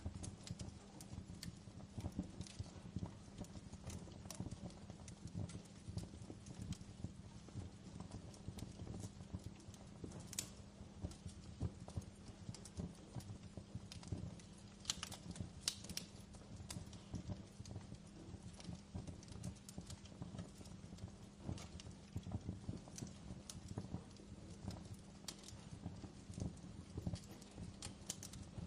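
Fireplace fire crackling: a dense, irregular run of small crackles with a few sharper pops, over a low steady rumble.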